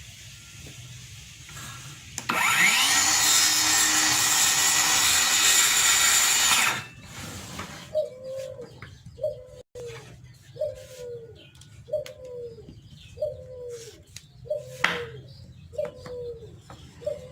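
Circular saw motor spinning up with a rising whine about two seconds in, running loudly for about four and a half seconds, then cutting off abruptly. Afterwards a short falling note repeats about once every second and a quarter, with light clicks between.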